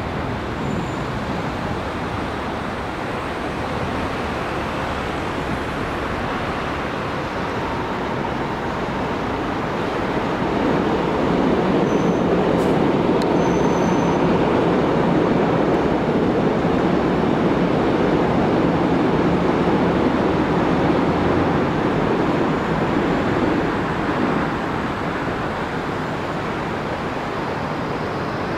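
Electric passenger train crossing a steel railway bridge: a steady rumble of wheels on the rails and girders that swells about ten seconds in as the train passes close, then eases off near the end.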